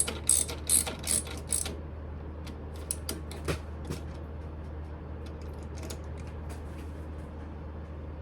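Smithy lathe: a quick run of sharp metallic clicks, about three a second, then scattered clicks that die away by about six seconds in, over a steady low hum.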